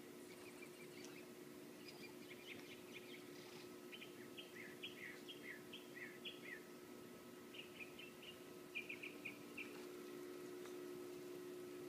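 Songbirds chirping faintly: runs of short, high chirps and a few quick falling notes, with a fast string of chirps about nine seconds in. A steady low hum runs underneath and grows louder near the end.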